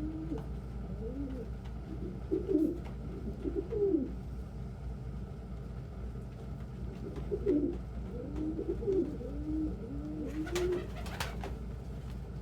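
Domestic pigeons cooing in several bouts of low, bending coos, over a steady low hum. A few sharp clicks come near the end.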